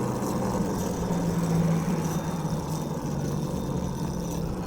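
Minibike's small gas engine running at a steady pace while riding, with a loud hum and rush from the tires on the road.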